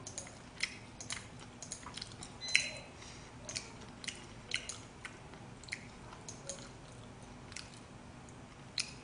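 Someone chewing braised pig's trotters (jokbal): a string of short, irregular mouth clicks, the loudest about two and a half seconds in.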